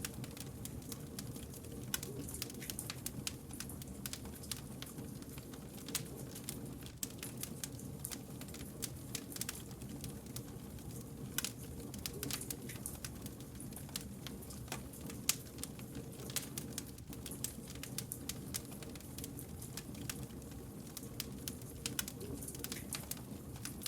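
Wood campfire crackling: many quick, irregular sharp pops and clicks over a low, steady rumble of burning flames.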